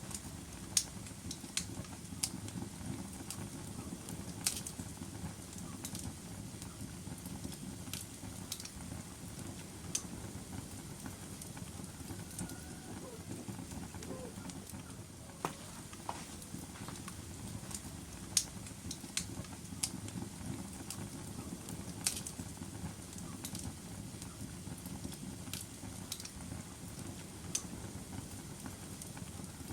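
Logs burning in a fireplace: a steady low rumble of the flames with irregular crackles and sharp pops, several louder snaps scattered through.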